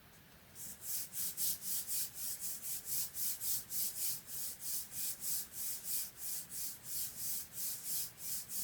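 Something rubbed back and forth across paper in quick, even strokes, about three to four a second, a dry scratchy hiss that starts about half a second in and keeps a steady rhythm.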